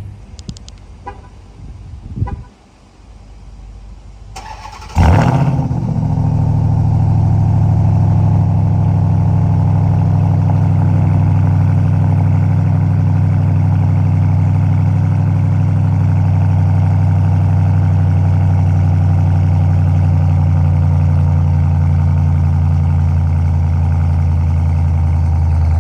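Stock-exhaust Ram 1500 TRX's supercharged 6.2-litre V8 starting up about five seconds in with a brief flare, then idling steadily. A few faint clicks and a thump come before the start.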